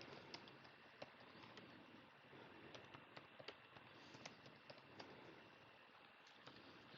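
Faint, irregular computer keyboard and mouse clicks over a low room hiss, as code is selected, copied and pasted.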